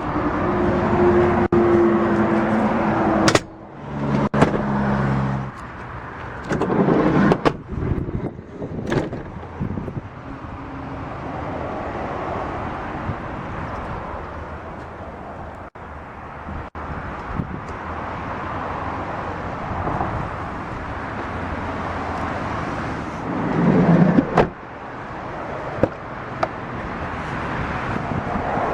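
Clicks and clunks of a minivan's interior fittings and doors being handled, with a couple of short steady whirs in the first few seconds, over a steady background hum.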